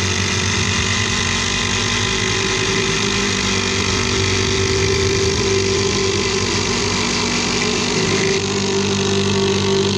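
Two cordless impact drivers, a single-speed DeWalt and a Ridgid on speed 2, running at the same time as they drive 7-inch log screws, giving a loud, steady rapid-hammering buzz. A little past eight seconds in, the pitch of the sound shifts.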